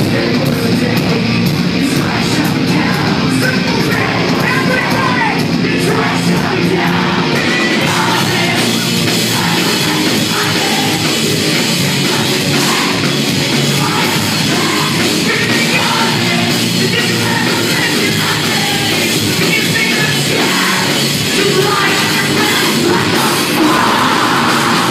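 Post-hardcore band playing live, heard loud and distorted through a phone microphone: heavy guitars and drums, with yelled and sung vocals.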